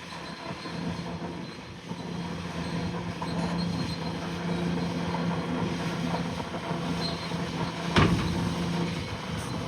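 Bulldozer's diesel engine running steadily under work, with a droning hum. A single sharp bang about eight seconds in.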